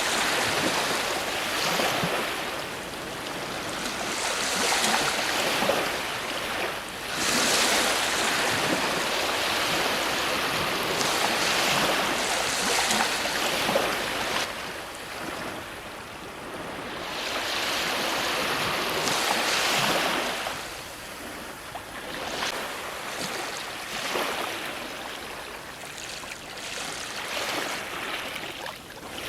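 Ocean surf breaking on a shore: a steady wash of water noise that swells with each breaking wave every few seconds and eases back between them.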